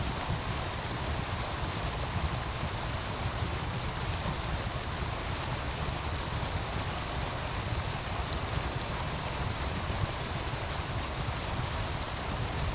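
Wood fire crackling with a few sharp, scattered pops over the steady rush of a meltwater stream.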